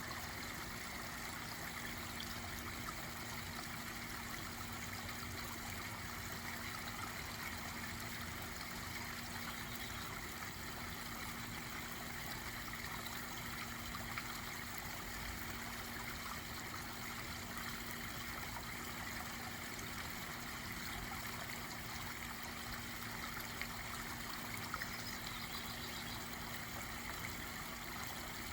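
Water running steadily over a small backyard pond waterfall, with a faint steady hum underneath.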